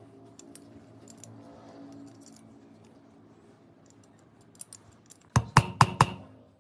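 Faint clicks of metal parts being handled over a low hum, then four sharp metallic taps in quick succession near the end, each ringing briefly.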